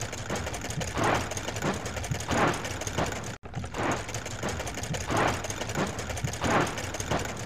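Cartoon car-wash sound effect of a spinning scrub brush: a busy mechanical whirring with a swishing swell about every 0.7 s. It cuts out briefly a little over three seconds in, then carries on.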